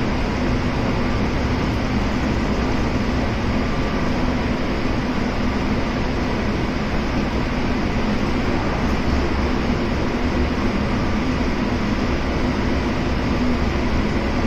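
Kintetsu 7000 series electric train running at a steady speed. It gives an even rumble of wheels on rail with a steady low hum that does not change in pitch.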